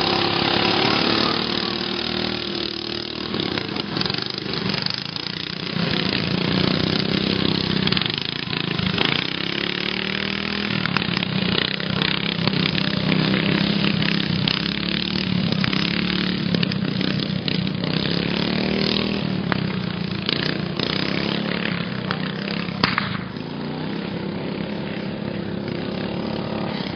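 Two racing stock riding lawn mowers' small engines running hard, their pitch rising and falling as they speed up, slow and turn.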